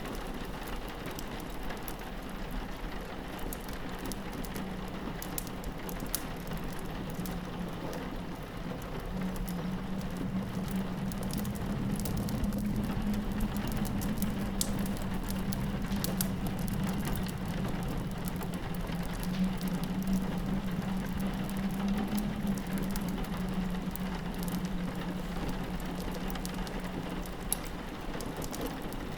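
Steady rain hitting a window, with the scattered sharp crackles and pops of a fireplace and a low wind howl that swells through the middle.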